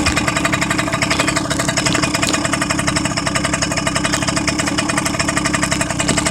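Motorcycle engine running steadily at idle, a constant hum with even rapid firing pulses and no change in speed.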